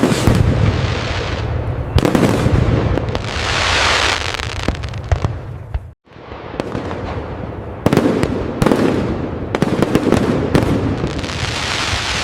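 Fireworks display: a dense run of bangs and rapid crackling over a hissing wash of bursting shells. It cuts out abruptly about six seconds in and starts again straight away.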